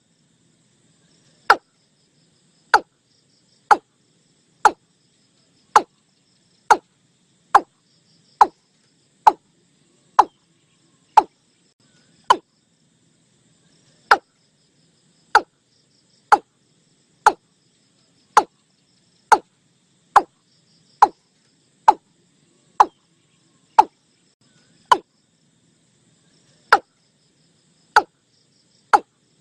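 Nok i-klung bird calling: short, sharp notes, each dropping quickly in pitch, repeated about once a second with a few longer pauses. Faint insect chirring sits high behind it.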